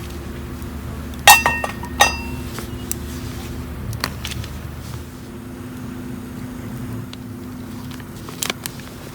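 Metal camp gear clinking: two sharp clinks with a short ring about a second in and again half a second later, then a few lighter taps, over a steady low hum.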